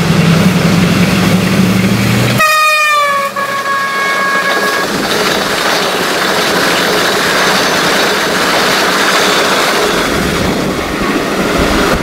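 Diesel-electric locomotive engine running with a steady low drone, which cuts off suddenly about two and a half seconds in as the train horn sounds for about two seconds, its pitch dropping slightly. Then the steady rolling noise of the passenger coaches running past on the rails.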